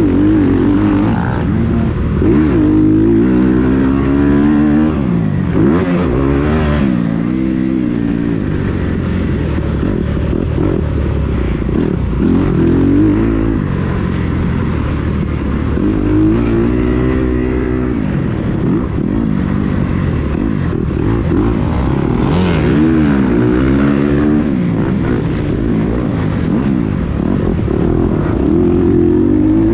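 Kawasaki KX250 motocross bike engine revving hard and backing off over and over, its pitch climbing and falling with each burst of throttle.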